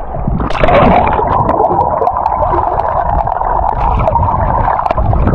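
Rushing, gurgling river water with scattered clicks and knocks, heard through a camera microphone dipped under the surface while reaching down to the riverbed. It comes in sharply about half a second in and stays steady and loud.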